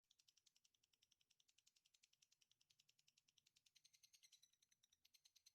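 A very faint, rapid, even chirping trill of about a dozen high chirps a second. It starts abruptly out of silence as a masteran song recording begins.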